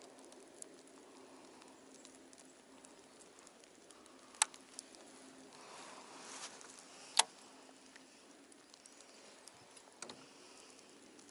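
Soft patter of falling snow landing on the boat and gear, over a faint steady hum. Two sharp clicks stand out, about four and seven seconds in.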